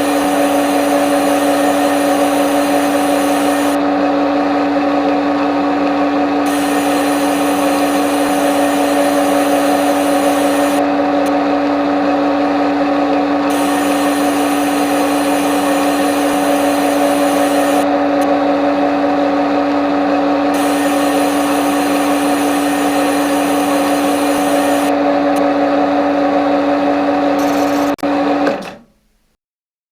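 CNC lathe running a turning cycle: a steady motor hum with a higher hiss that comes and goes every few seconds, cutting off abruptly near the end.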